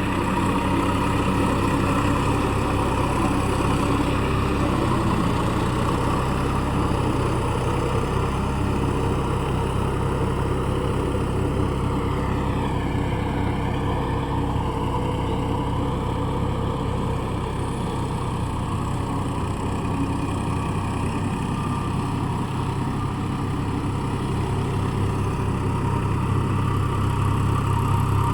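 Massey Ferguson 254 4WD tractor's diesel engine running steadily under load, pulling a rotavator through a field in third gear low. Its pitch dips briefly about halfway, and it gets a little louder near the end.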